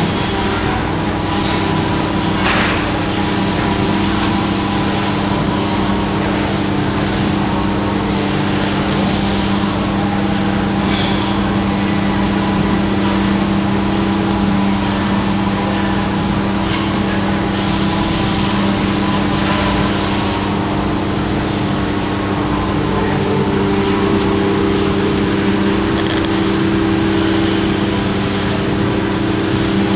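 Turbocharged Nissan KA24DE inline-four, with cams and a small Garrett turbo, idling steadily at an even pitch.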